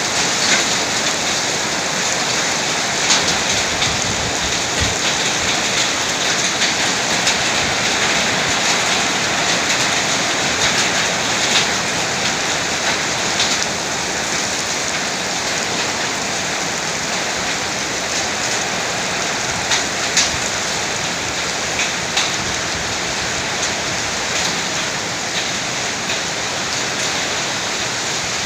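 Heavy summer-storm downpour with hail: a dense, steady hiss of rain, with many sharp separate hits of hailstones striking scattered through it.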